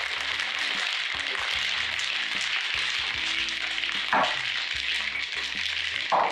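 Cocktail shaker full of ice shaken vigorously: a dense, continuous rattle of ice against the tin, with two harder knocks at about four and six seconds. The long hard shake is meant to whip the pineapple juice into a thick foam. Music plays faintly underneath.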